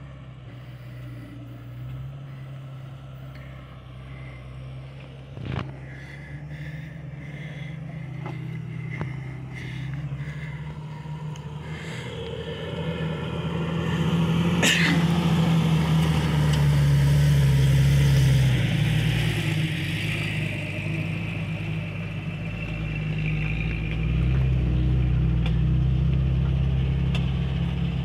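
Jeep engine running steadily, growing louder about halfway through as it works harder, with two sharp knocks: one a few seconds in and one around the middle.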